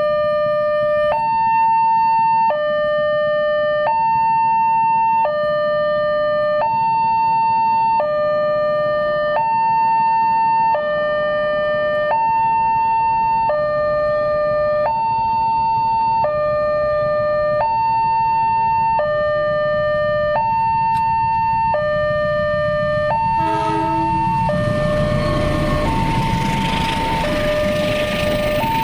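Indonesian railway level-crossing alarm sounding a steady two-tone hi-lo signal, switching between a higher and a lower tone about every one and a half seconds, warning that a train is coming. About 23 seconds in a short horn sounds, and then the loud rumbling noise of the train passing over the crossing builds under the alarm.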